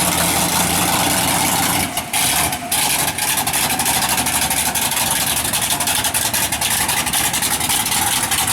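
A mud truck's big engine running loud and steady. About two seconds in the sound briefly drops out twice, then carries on rougher and noisier.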